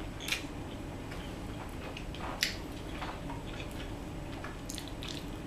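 Close-miked eating sounds of fettuccine alfredo being chewed: many soft wet mouth clicks and smacks, with a fork working noodles in a bowl. Two sharper clicks stand out, one about a third of a second in and one a little before halfway.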